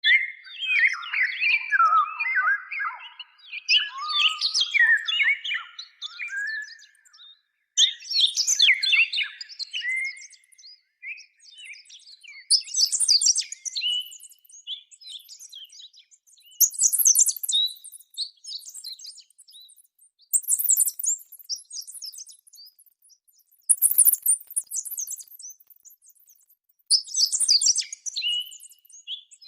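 Songbirds singing: phrases of rapid, high chirping notes every few seconds, each lasting one to three seconds, the later phrases higher-pitched than the first ones.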